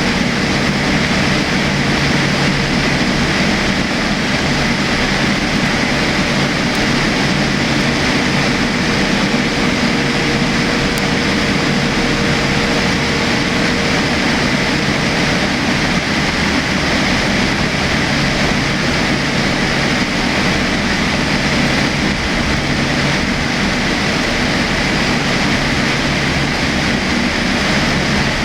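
Steady cabin noise inside a Boeing 787-8 airliner in flight: the even rush of airflow and engine drone, with a faint steady tone for several seconds in the first half.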